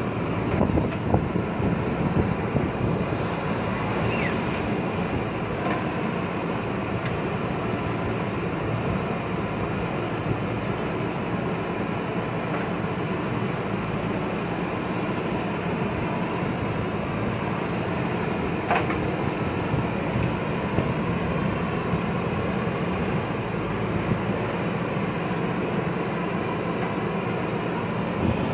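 JCB backhoe loader's diesel engine running steadily while it digs, with a few brief knocks in the first few seconds.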